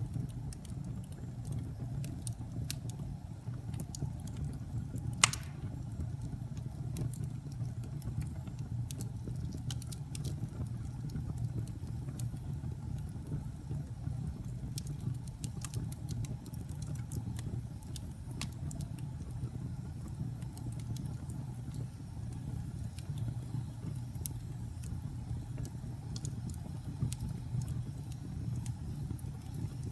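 Wood fire burning in a fireplace: a steady low rumble of the flames with scattered sharp crackles and pops, one louder pop about five seconds in.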